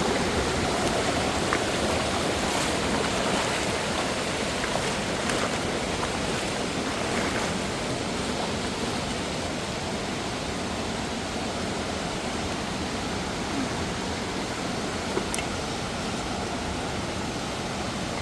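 Mountain stream and waterfall water rushing over rocks: a steady, even roar that eases slightly about eight seconds in.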